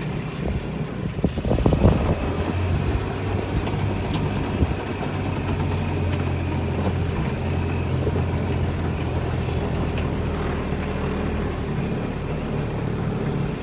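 An engine running steadily at a constant speed, with some brief rustling about a second or two in.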